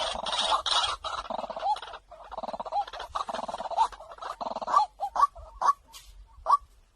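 White-breasted waterhen calls played as a trapping lure. A dense run of overlapping calls thins out about five seconds in into single short, sharp notes, about two a second.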